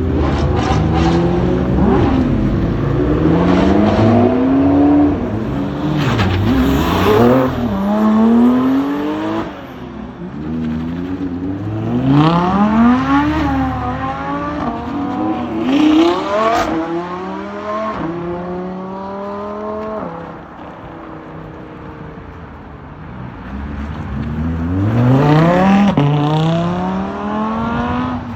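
Supercars accelerating away one after another, their engines revving hard: the pitch climbs steeply, drops at each gear change and climbs again, several pulls in a row, with a quieter lull about two-thirds of the way through before another car revs up near the end.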